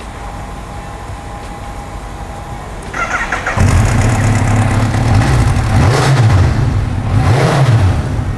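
Kawasaki Ninja H2's supercharged inline-four cranked on the starter about three seconds in and catching almost at once. It is then revved up and down several times.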